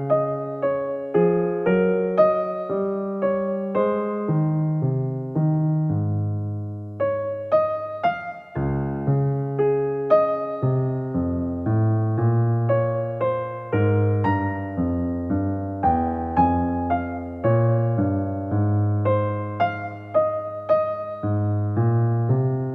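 Soft background music: a piano playing a gentle melody of struck notes that ring and fade one after another.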